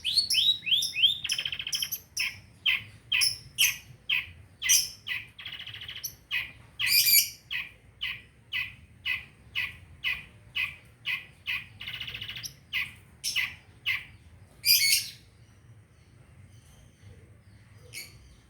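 Long-tailed shrike (pentet) calling: a run of short, sharp repeated chirps, about one or two a second, broken by a few brief buzzy rattles. The calls stop about fifteen seconds in and start again near the end.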